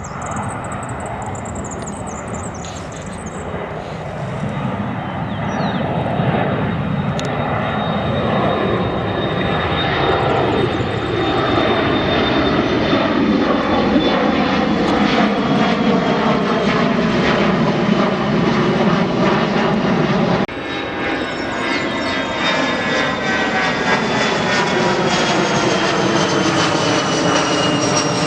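Jet airliner engines passing by: a roar that grows louder over the first dozen seconds, with a whine that slides down in pitch as the aircraft goes past. The sound breaks off abruptly about twenty seconds in and picks up again with another falling whine.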